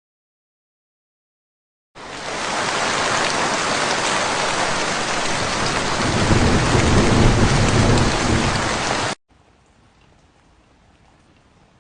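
Heavy rain pouring steadily, with a low rumble of thunder building about two-thirds of the way through. It starts suddenly after two seconds of silence and cuts off abruptly near the end, leaving only a faint hiss.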